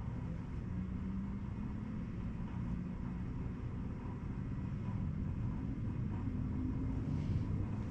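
A steady low mechanical hum or drone, with no distinct knocks or clicks.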